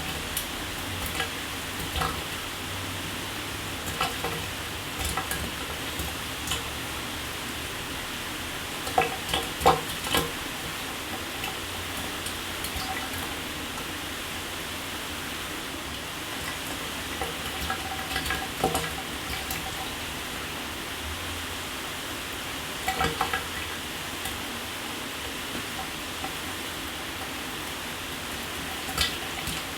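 Shower water spraying steadily: a constant hiss with scattered sharper splashes and drips, and a few brief bunches of louder splashes.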